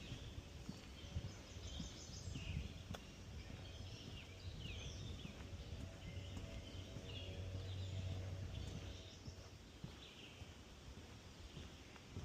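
Songbirds chirping and calling in swamp forest, short calls scattered throughout, over irregular low thuds of footsteps on a wooden boardwalk. A low hum swells to its loudest just past the middle, then fades.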